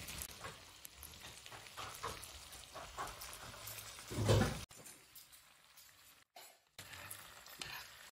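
Beef pieces sizzling as they fry in oil on a hot iron tawa griddle, with small crackles throughout and one louder swell about four seconds in.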